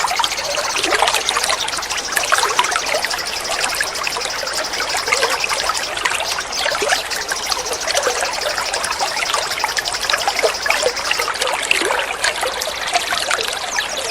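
Babbling, flowing water with small songbirds singing over it. One bird gives a long, high, rapid trill that breaks off briefly about six seconds in, then resumes and stops near eleven seconds.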